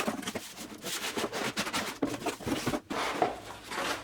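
A cardboard product box being opened and unpacked, with dense rustling and rubbing of the cardboard and packaging and scattered light knocks throughout.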